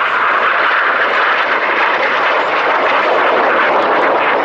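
Fixed-wing aircraft engine noise at an air show, a loud, steady rushing roar with no break.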